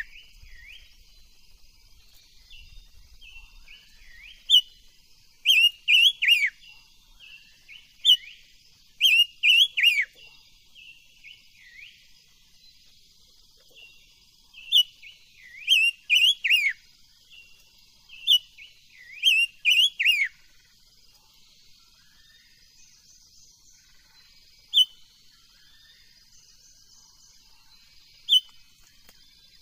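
A chim ngũ sắc songbird singing in short bursts of quick, clear, down-slurred whistled notes, with pauses between phrases that grow longer toward the end.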